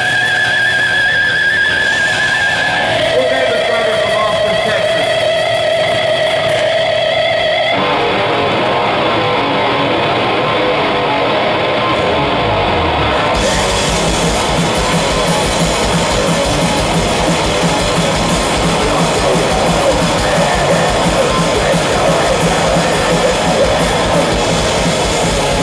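Heavy metal band playing live and loud: distorted electric guitar holds long, wavering notes, then the sound thickens and the full band with bass comes in about halfway.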